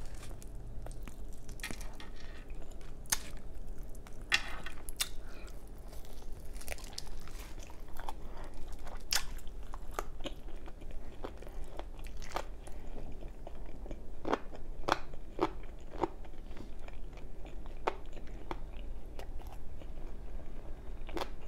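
A person biting and chewing chicken off a drumstick: irregular mouth clicks and smacks.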